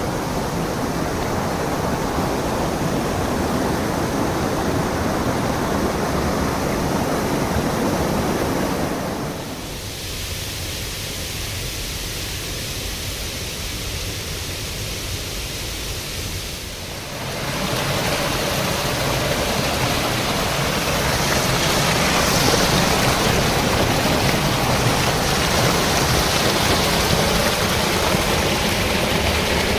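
Steady rushing water. It drops quieter for several seconds about a third of the way in, then comes back louder and brighter for the rest.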